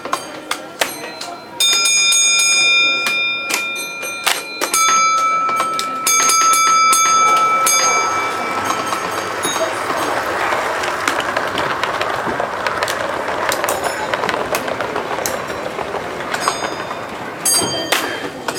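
Model railway layout: a high steady tone sounds in three long stretches over the first eight seconds or so, with scattered sharp clicks from the running trains. After that a general haze of hall chatter takes over.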